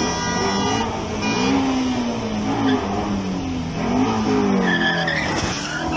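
Car engine revving up and down repeatedly, with tyres skidding and squealing. A steady held tone at several pitches at once stops about a second in.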